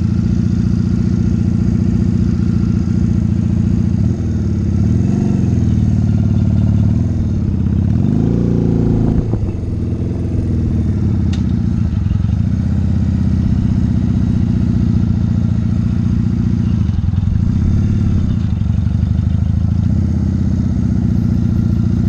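Motorcycle engine running at low speed, steady for most of the time, with its pitch rising and falling briefly about five seconds in and again about eight to nine seconds in as the throttle is worked through the turn.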